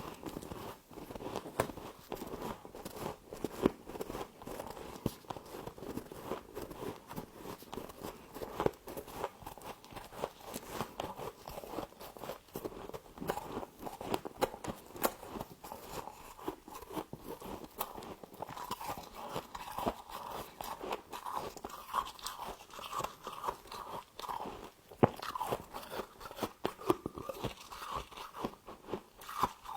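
Close-up chewing and crunching of humidifier frost: dense, irregular crunches as the ice is bitten and ground between the teeth.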